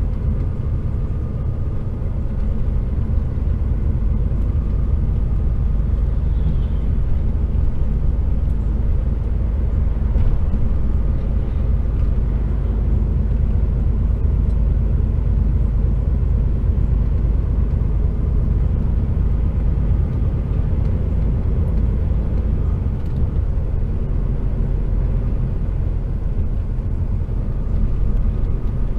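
HGV container lorry's diesel engine running steadily at low road speed, a low rumble with road noise, heard from inside the cab.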